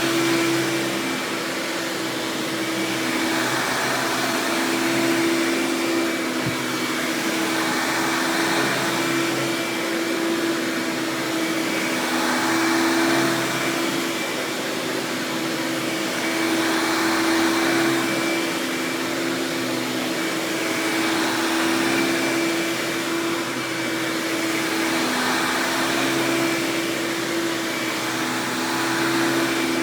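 Hoover Power Drive Supreme self-propelled upright vacuum, fitted with a Concept Quadraflex brush roll, running steadily with its self-propelled drive on: a constant motor hum with a thin high whine over it, and a rushing sound that swells and fades about every four seconds.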